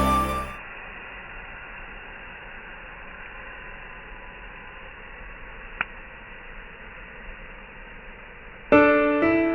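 Background music fades out, leaving a steady soft hiss with a single brief pop about six seconds in. Piano music starts again near the end.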